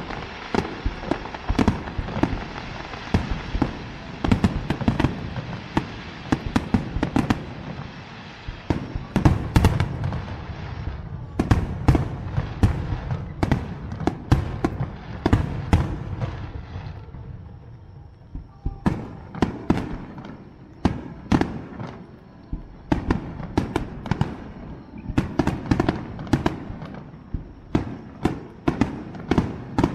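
Aerial fireworks finale: a rapid string of shell bursts, dense and overlapping for the first half or so, thinning out about 17 seconds in, then another quick run of loud bangs near the end.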